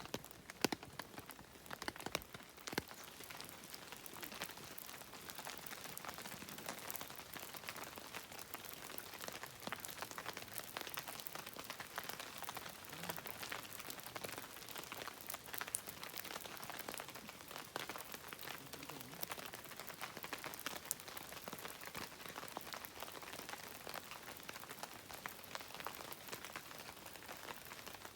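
Light rain pattering steadily, a dense spray of small drop ticks.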